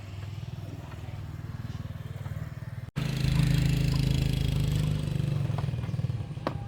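An engine running steadily with a rapid even beat. It cuts out for an instant about three seconds in and comes back louder, with a few sharp clicks near the end.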